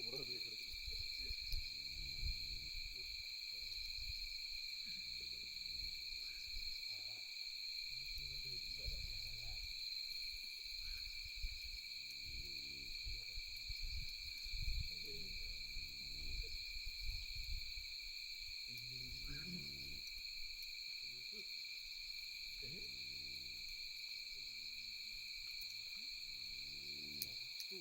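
Night insect chorus: a steady, unbroken high-pitched trill at two pitches. Faint low, irregular sounds come and go beneath it, with occasional faint crackles.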